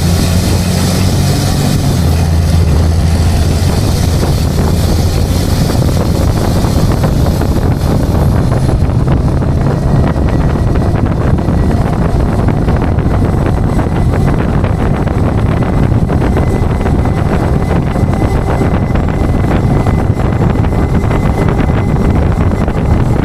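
Tow truck driving: steady engine and road rumble with wind buffeting the microphone. A deeper engine hum in the first couple of seconds eases off, and a high hiss fades out about eight seconds in.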